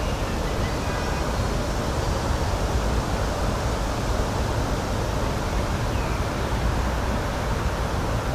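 Steady rushing outdoor nature noise, even and unbroken, heaviest in the low end.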